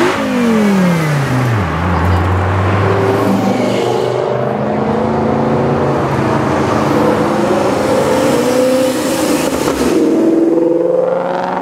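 A Dodge Viper's V10 accelerating hard past, its engine note dropping steeply in pitch over the first two seconds as it goes by. Steadier engine sound follows, then a Ford Mustang revs up and accelerates past near the end, its pitch climbing quickly.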